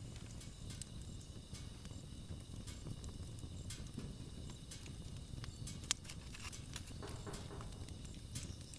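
Wood campfire burning: a low steady rumble with scattered crackles and pops, and one sharp pop about six seconds in.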